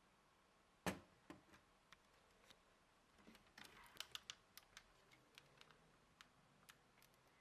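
Plastic Lego parts clicking as a mechanism is handled: one sharp click about a second in, then a quick cluster of lighter clicks and rattles near the middle, and a few scattered ticks.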